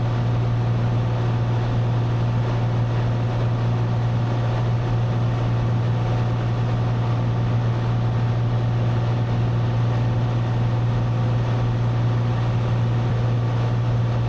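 Cessna 182's single piston engine and propeller droning steadily in flight, heard from inside the cabin, with a strong low hum and an even engine pitch throughout.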